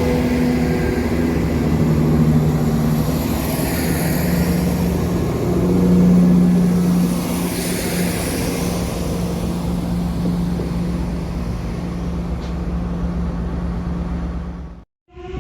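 A train going by with a steady engine drone, loudest about six seconds in, cutting off abruptly near the end.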